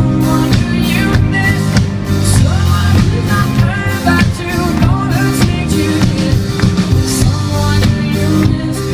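Live rock band playing a song on stage: drum kit, bass and guitar, with a sung vocal line.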